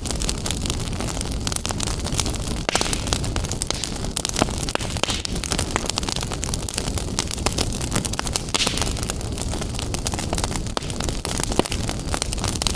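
Wood fire burning in a fireplace: constant crackling, with many sharp snaps over a steady low rumble of the flames.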